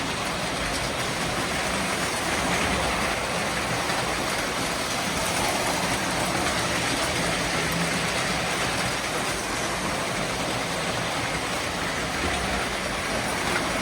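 A train running, a steady rolling noise with no breaks or distinct events.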